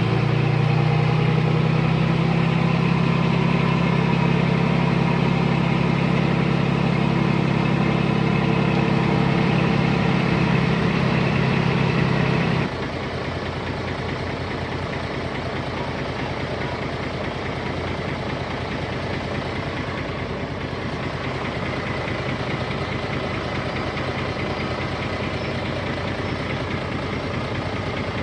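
Heavy diesel engine running steadily at raised speed. About twelve seconds in it drops suddenly to a lower, quieter idle, which then runs steadily.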